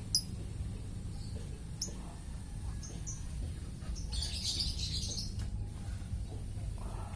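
Lovebird giving a few short, high chirps, with a brief hiss about four seconds in, over a steady low hum.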